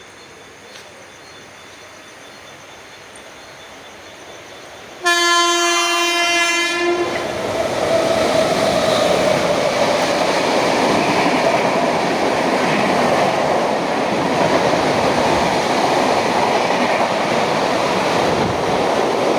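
Indian superfast express train: faint at first, then a single long horn blast about five seconds in, lasting around two seconds. The loud rumble and clatter of the train passing close by follows and carries on.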